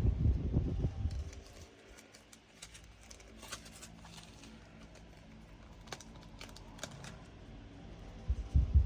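Table-top handling noise from kitting up diamond painting drills: muffled bumps and rustling for about the first second and again near the end, with a few light plastic clicks in between.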